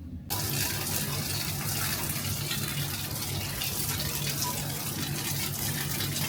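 Water running steadily, starting suddenly just after the start, with a low hum beneath it.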